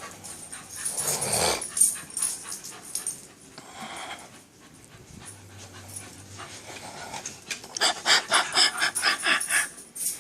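Dog panting fast, about four to five breaths a second, in the last few seconds, with a rustle of handling about a second in.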